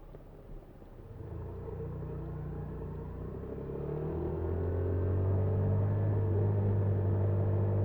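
Small motorcycle engine, from the Honda Super Cub 50 carrying the camera, growing steadily louder as the bike gets under way. It gives a low steady hum with a faint whine that rises slowly in pitch.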